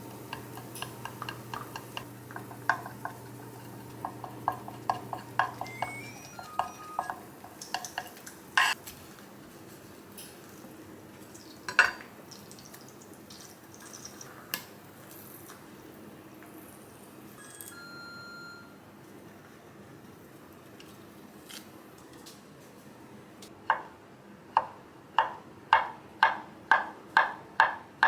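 Kitchen utensils and dishes clinking and clattering during food preparation, with a short electronic beep partway through. Near the end comes a steady run of sharp knocks, about two a second.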